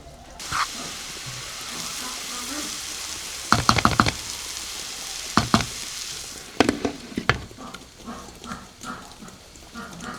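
Food sizzling in hot oil in a frying pan, the hiss starting suddenly about half a second in and dying down near the end, with a utensil knocking against the pan in several quick clusters while it is stirred.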